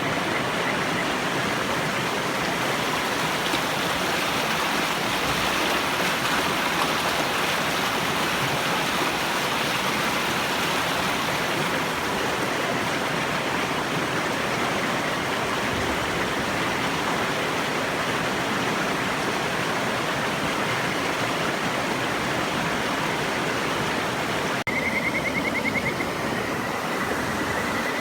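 River water rushing steadily. Near the end a Kajika frog gives a high, rapidly pulsed trill that then glides upward in pitch.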